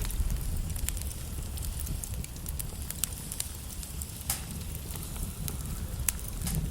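Wood fire burning in a fireplace: a steady low rumble and hiss, with scattered sharp crackles and pops from the logs, the loudest about 1, 3, 4 and 6 seconds in.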